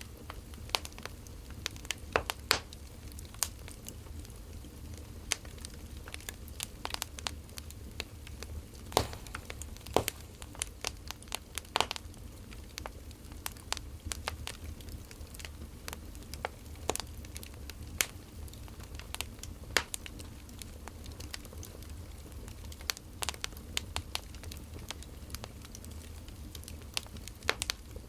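Wood fire crackling: irregular snaps and pops, a few louder ones near the middle, over a low steady rumble.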